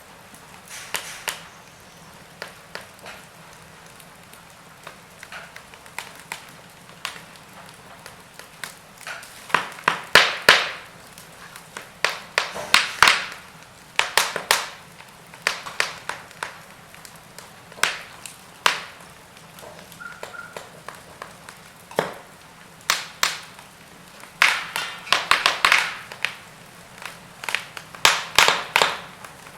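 Wood fire crackling: burning logs giving off irregular sharp pops and snaps over a faint steady hiss. The pops are sparse for the first several seconds, then come in quick clusters.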